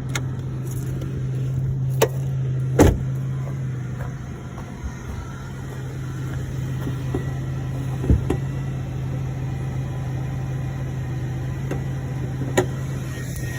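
Chevrolet 3800 Series II 3.8-litre V6 idling steadily, heard with the hood open, with a few short knocks over it.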